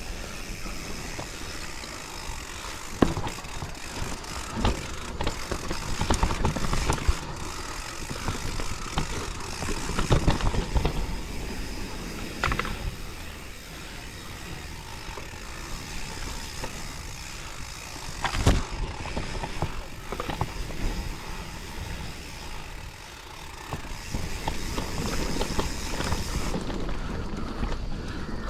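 Mountain bike riding down a rough, wet trail: a steady rush of tyre and ride noise with the rattle of the bike. Sharp knocks come every few seconds as it hits bumps, the loudest about three seconds in and again about eighteen seconds in.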